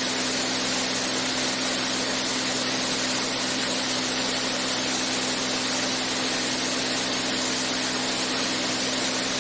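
Steady cabin drone of a Beechcraft A36 Bonanza in flight: the engine and propeller hum with one strong steady note under an even rush of airflow, unchanging throughout.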